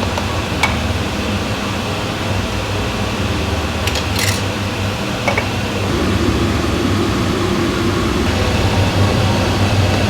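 Steady fan-like hum, getting slightly louder about six seconds in, with a few light clicks and taps from kitchen work.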